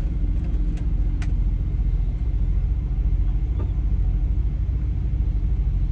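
Steady low rumble of an idling truck engine, with a constant hum over it and a few faint ticks.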